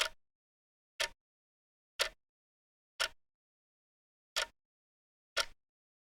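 Clock ticking, one short sharp tick about every second, with dead silence between ticks.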